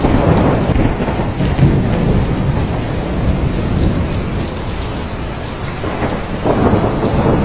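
Heavy rain falling steadily with thunder rumbling, easing a little mid-way and swelling again near the end.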